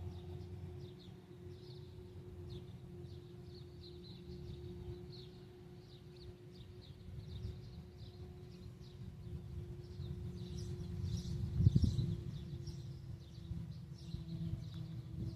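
Farm machinery engine running steadily with a constant hum, swelling to a louder rumble about three-quarters of the way through. Small birds chirp over it throughout.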